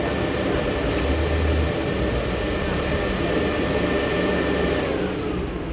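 Inside a LiAZ-6213.65 articulated city bus under way: steady engine and road noise with a thin steady whine that drops in pitch near the end. A high hiss joins for a couple of seconds about a second in.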